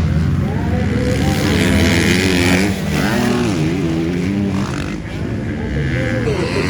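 Several motocross bikes racing, their engines revving up and falling back again and again as they go through the course.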